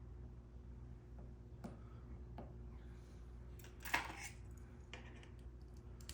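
Faint metallic clicks of a key being worked in a 1959 Mercury ignition lock cylinder as its newly fitted wafers are tested, with a louder short metal clatter about four seconds in.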